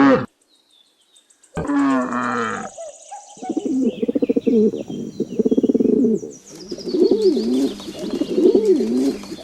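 Pigeons cooing: a repeated warbling coo that begins about three and a half seconds in and keeps going. A short, lower animal call comes about a second and a half in.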